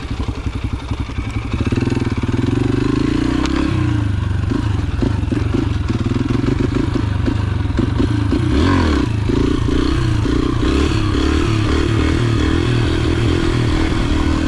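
Yamaha TT-R125 pit bike's small four-stroke single-cylinder engine running under load while being ridden. The revs climb over the first few seconds, drop just before the four-second mark, then rise and fall again and again, with a few knocks and rattles from the bike.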